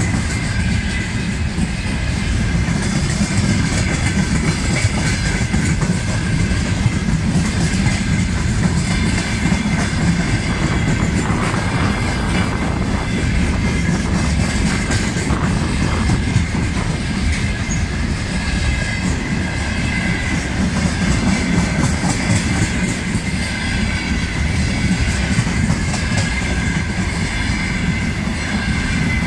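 Freight train of covered hopper wagons and boxcars rolling past close by: a steady heavy rumble of wheels on rail with a run of clicks over rail joints, and a thin high squeal from the wheels on the curve.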